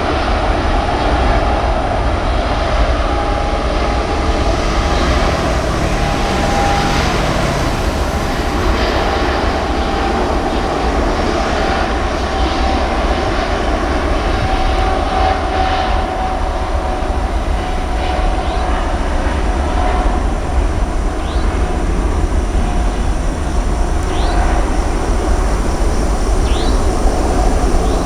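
Jet airliner engines running loud and steady, a continuous roar with a high whine over a deep rumble; a few short rising chirps come near the end.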